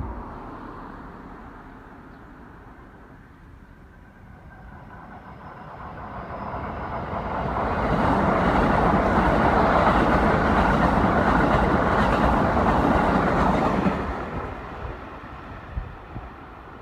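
Keikyu electric train passing: it approaches, the rush of wheels on rails holds steady for about six seconds, then it drops away.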